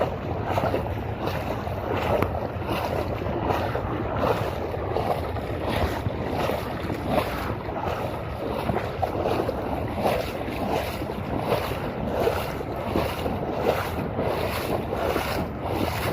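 Steady rushing noise of wind and water, with wind buffeting the microphone in irregular gusts.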